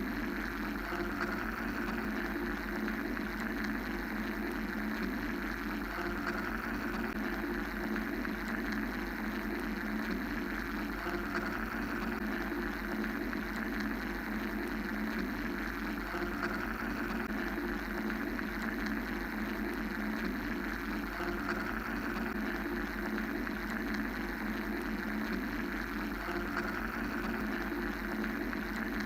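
Steady mechanical drone of white-noise-like hum, with a low rumble and a brighter hiss that swell and ease slowly about every five seconds.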